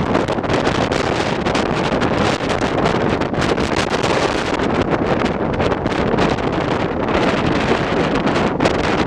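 Strong wind gusting and buffeting the microphone with a dense, rushing noise.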